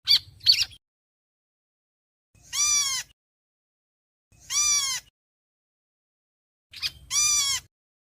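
Calls of the bird known in Vietnamese as héc xoan, calling to its flock. Two short, sharp notes come first, then three drawn-out harsh calls about two seconds apart, each arching up and then down in pitch.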